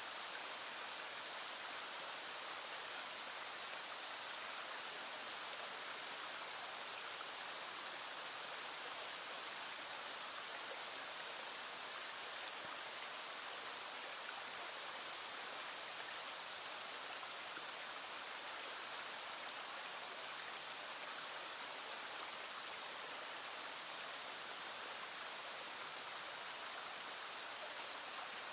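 Small stream flowing, a steady even rush of water with no breaks or separate sounds.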